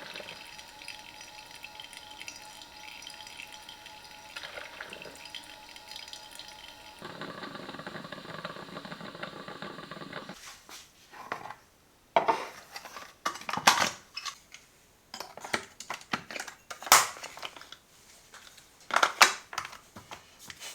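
Parkside PKMA 20-Li A1 cordless coffee machine running through a brew with a steady hiss and faint steady tones, which change about seven seconds in and cut off about ten seconds in. Then a series of sharp clicks and knocks as the machine and cup are handled.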